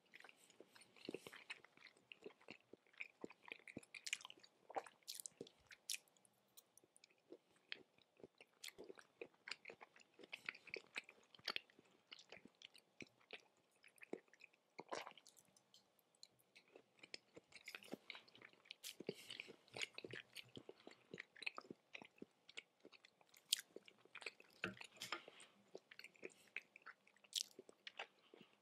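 Close-miked chewing of raw tuna sashimi: a steady run of soft mouth clicks and smacks.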